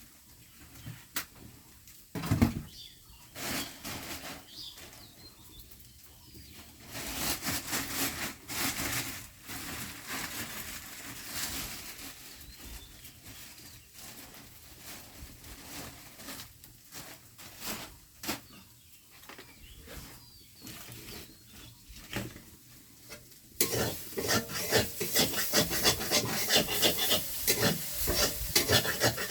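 Food-preparation scraping and rasping, with scattered knocks and scrapes at first. About three-quarters of the way in it becomes a louder, fast, steady run of rasping strokes.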